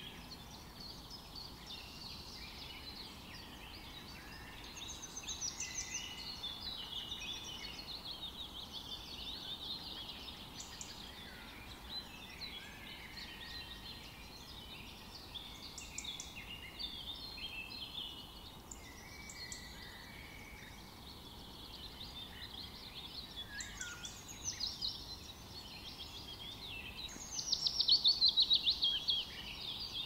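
Several songbirds singing and chirping over one another, with a loud, rapid trill near the end.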